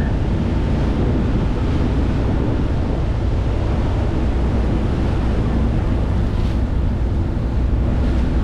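Wind buffeting the microphone over rushing sea water and a steady low rumble, as heard aboard a moving ferry.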